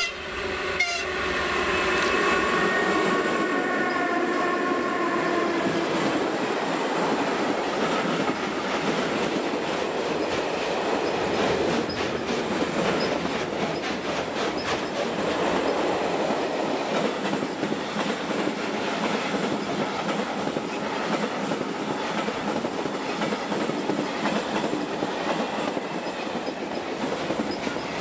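Freight train passing close by behind an electric locomotive: the end of a horn blast in the first second, then a chord of tones that slowly falls in pitch as the locomotive goes by, then the steady rumble and clatter of loaded freight wagons rolling past on the rails.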